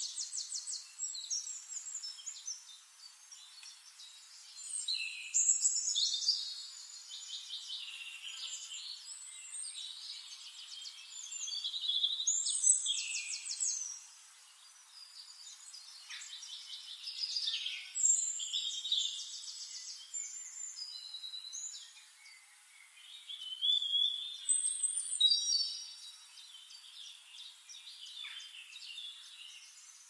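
Several songbirds singing in turns: high whistled phrases and fast trills come in bursts every few seconds, with quieter stretches between.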